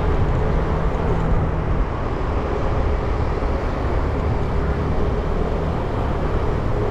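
300cc motorcycle running along city streets with a low rumble of road and wind noise on a bike-mounted action camera. A steady engine hum drops away about two seconds in.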